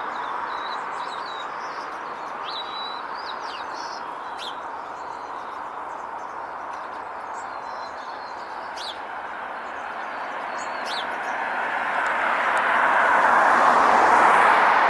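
Steady road traffic noise that swells as a vehicle passes near the end, with a few short, high bird chirps scattered over it.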